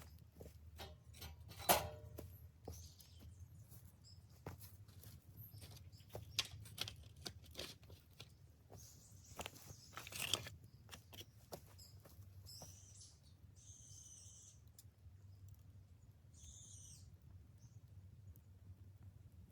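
Dry bamboo cracking and popping in irregular sharp snaps, two of them louder, about two seconds in and about ten seconds in. In the second half these give way to a few short high bird calls.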